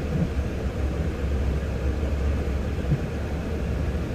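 Steady low rumble inside the cab of a Nissan Titan pickup driving on snow: engine and road noise from its BFGoodrich KO2 all-terrain tyres.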